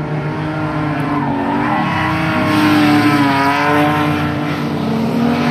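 Ford Falcon FG ex-taxi with extractors, engine held at high revs while drifting, its pitch wavering up and down with the throttle, with tyres squealing across the rear wheels.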